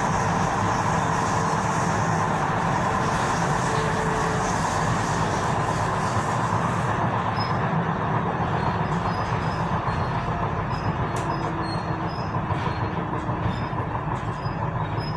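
Tyne and Wear Metro train running on the rails, heard from inside the carriage: a steady rumble and hiss of wheels on track with a faint hum. About halfway through the hiss eases off as the train slows toward a station, and the wheels click now and then over the track.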